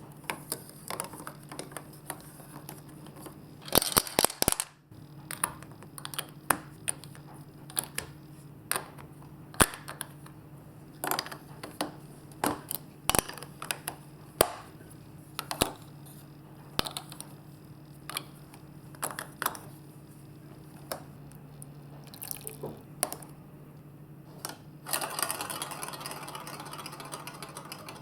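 Marbles clicking and clattering along a plastic block marble run, with irregular sharp clicks and knocks, a few of them loud, over a steady low hum. A rushing, water-like noise joins about 25 seconds in.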